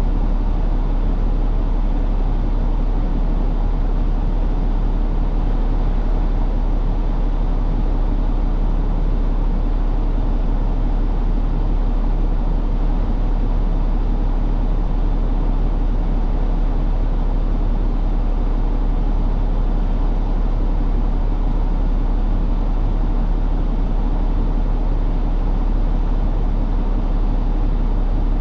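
Semi truck running with a steady, unbroken low rumble.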